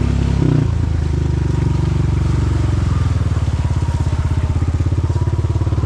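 Quad bike (ATV) engine running at low speed, with a brief jump in pitch about half a second in, then a steady, even throb.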